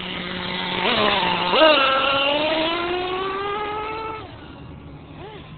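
Fuel-powered RC monster truck's small two-stroke engine revving up sharply about a second and a half in. It holds high revs with a slowly climbing pitch, then fades away about four seconds in.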